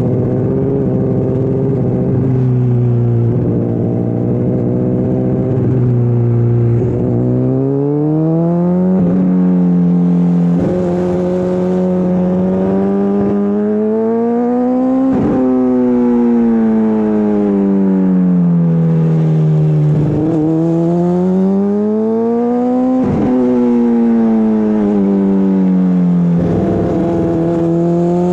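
Honda CBR600RR inline-four engine through an Akrapovič exhaust, ridden on the road: it holds a steady pitch for several seconds, then accelerates with the pitch climbing and dropping sharply at each upshift, eases off with the pitch falling away, and pulls again, twice over.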